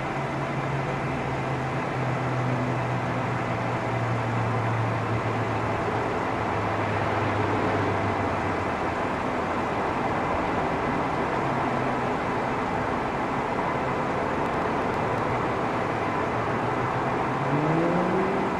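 Steady city traffic noise, with a low engine hum fading out about halfway through and a vehicle engine rising in pitch near the end as it accelerates.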